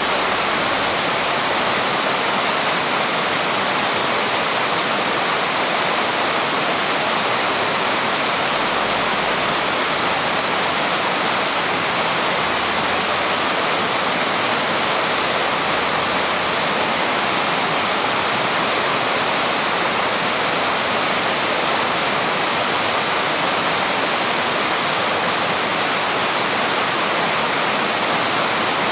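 Small waterfall rushing steadily: the even, unbroken noise of falling and tumbling water.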